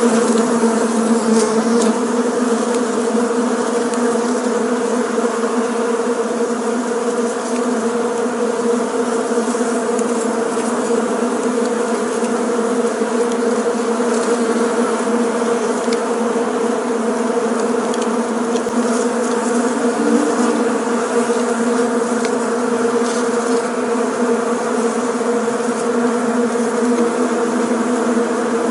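Bees buzzing in flight, a steady continuous drone of many wingbeats with a strong hum at a low and a higher pitch.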